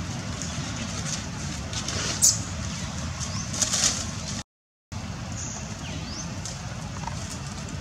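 Outdoor ambience: a steady background hiss with short, high, rising bird chirps repeating every second or so, and a few sharp rustling crackles near the middle. The sound cuts out for about half a second partway through.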